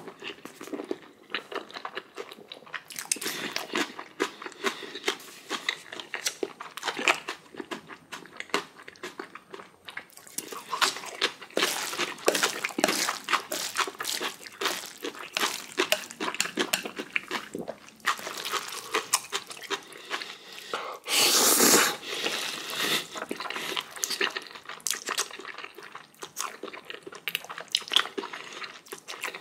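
Close-miked chewing and crunching of a person eating black bean instant noodles and kimchi, wet smacks and bites following one another without pause. A louder rush of noise about a second long comes a little past the middle.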